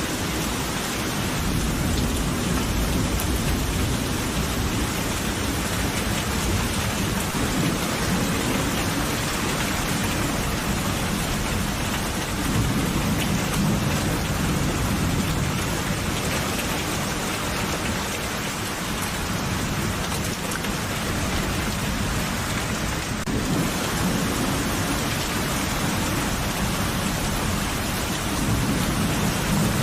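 Steady heavy rain falling, with low rolling thunder swelling and fading several times underneath.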